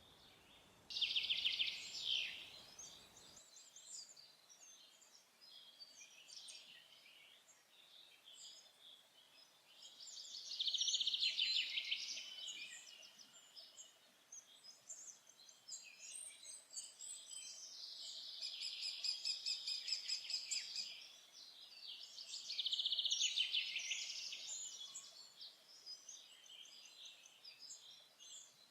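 Songbirds singing in a forest: several loud songs of rapidly repeated notes, each lasting a couple of seconds, come about a second in, around the middle and twice near the end, with quieter calls in between.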